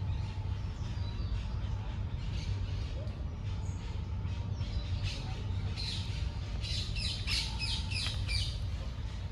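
Birds calling, with a quick run of high chirps, about four or five a second, loudest from about five to eight seconds in, over a steady low background rumble.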